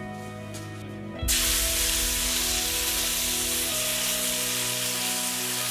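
Food hitting a hot pan and sizzling, starting suddenly about a second in and carrying on as a loud, steady frying hiss, over background music.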